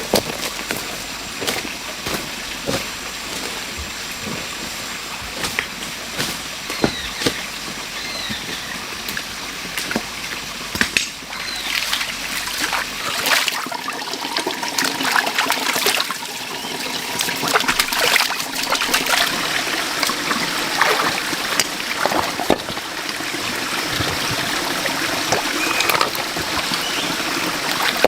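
Water trickling and splashing, with many small clicks and knocks throughout and a few brief bird chirps early on.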